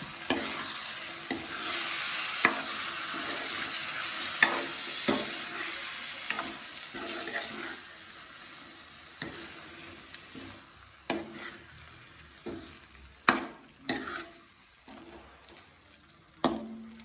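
Boiled eggs, onions and ground masala powder sizzling in a nonstick frying pan while a metal spoon stirs them, with sharp clicks and scrapes as the spoon strikes the pan. The sizzle is strongest in the first half and fades toward the end.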